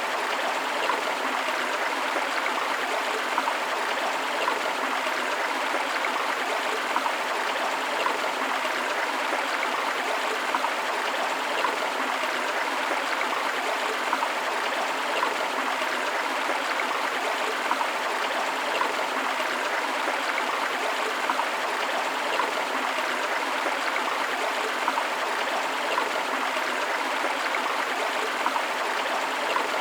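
A river flowing steadily: a continuous rush of water that is mostly mid and high with little deep rumble, dotted with small brief splashes.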